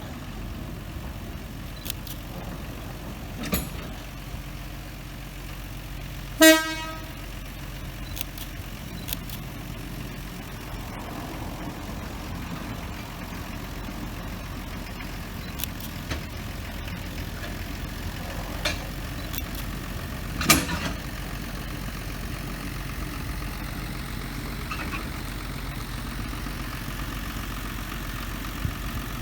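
Narrow-gauge sugar-railway train standing with a steady low engine hum. About six seconds in, its horn gives one short toot, and a few sharp clanks sound, the loudest about twenty seconds in.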